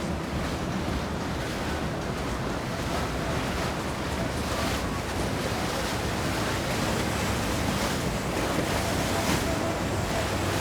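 Steady rushing noise of wind on the microphone and water, with no distinct events.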